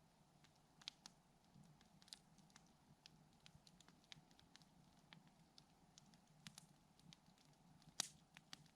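Wood campfire crackling faintly, with irregular small pops and snaps and one sharper pop near the end.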